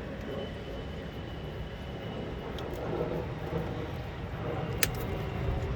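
Steady low background rumble like distant engine noise, with a faint thin high whine in the first couple of seconds and a few small sharp clicks, the clearest about five seconds in.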